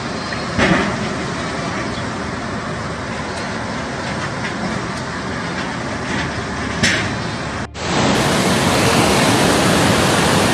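Steady loud rushing noise with two brief knocks. About eight seconds in it cuts abruptly to a louder, denser rush.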